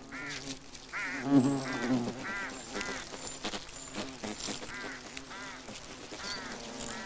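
A hornet colony buzzing steadily, with a bird giving short repeated calls about twice a second over it.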